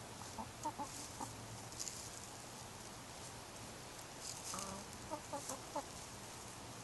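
Chickens clucking in two short runs of quick calls, one about half a second in and another near five seconds.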